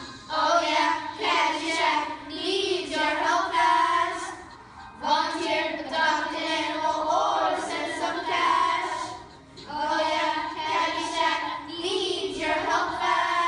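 A group of children singing together in held, phrased notes, with short breaks between phrases.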